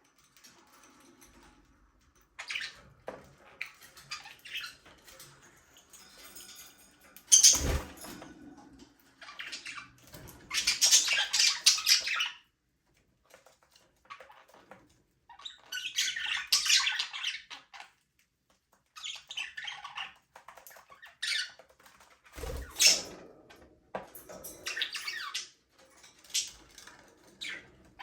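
Budgerigars chirping and squawking in irregular bursts of chatter with short pauses between, and two sharp knocks, one about a third of the way in and one about four-fifths of the way in.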